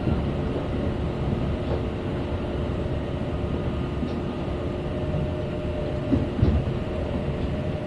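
Kintetsu express train running, heard from inside the passenger car: a steady rumble of wheels on track with a steady humming tone, and a couple of louder thumps about six seconds in.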